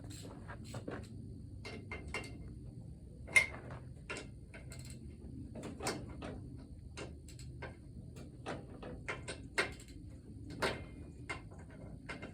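Scattered light clicks and knocks of metal tools and parts being handled at a workbench, irregular, with one sharper knock about three and a half seconds in.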